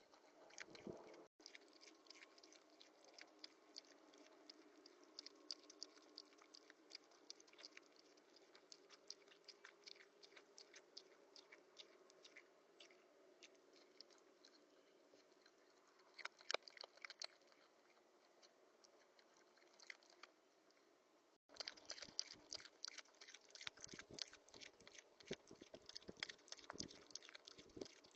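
A small rodent cracking and chewing seeds: faint, rapid crunching clicks, denser and louder near the end.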